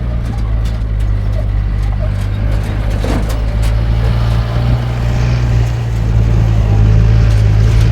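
A motor vehicle's engine running steadily, a loud low drone, with a few light rattles or knocks about three seconds in.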